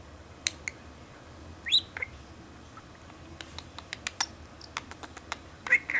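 Pet talking parrot making scattered sharp clicks, with a short rising whistle a little under two seconds in and another rising call starting near the end.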